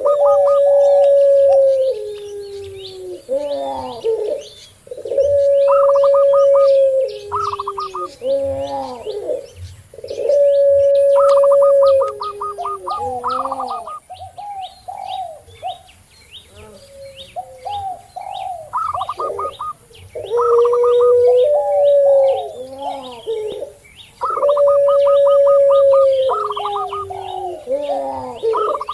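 Cooing doves: a puter pelung's long drawn-out coo, held steady and then dropping in pitch, repeated about five times. It is mixed with quick runs of higher coo notes and shorter bending coos from a zebra dove (perkutut) and a spotted dove (tekukur), with faint small-bird chirping behind.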